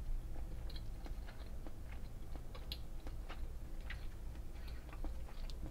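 A person chewing a piece of fudgy brownie: soft, irregular moist clicks over a steady low hum.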